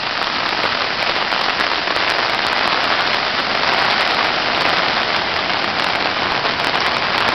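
Steady rain falling, an even dense hiss with no breaks.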